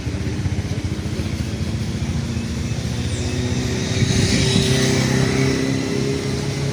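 A motor engine running steadily, growing louder around four seconds in and then easing off slightly.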